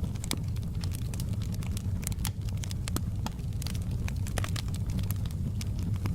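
Fireplace fire burning with a steady low rumble and frequent irregular sharp crackles and pops of burning wood.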